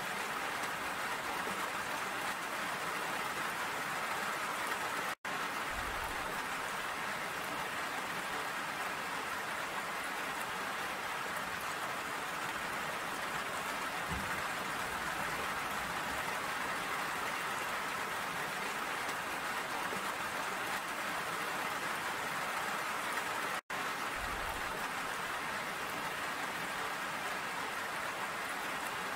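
Steady rain falling, a dense even hiss that cuts out for an instant twice.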